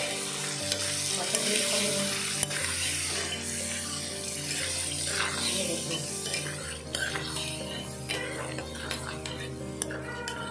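Chicken in spinach paste sizzling in a frying pan while being stirred with a metal spatula, a steady frying hiss with scattered clicks of the spatula.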